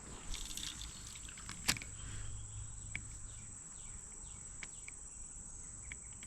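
Steady high-pitched insect buzz in the background, with one sharp click a little under two seconds in and a few lighter ticks.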